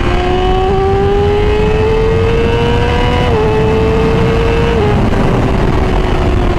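Yamaha R6 inline-four sport bike accelerating hard in third gear through its Graves exhaust, the engine note climbing steadily for about five seconds before the throttle closes and the pitch sinks slowly. Wind noise rushes over the helmet microphone underneath.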